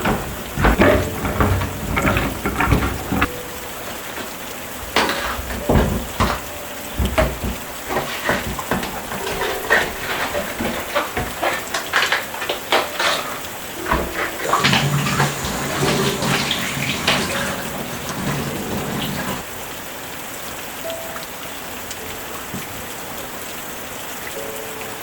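Steady rain falling, with frequent short clinks and knocks of things being handled over it until about three quarters of the way through, after which only the rain is left. A low hum joins in for a few seconds past the middle.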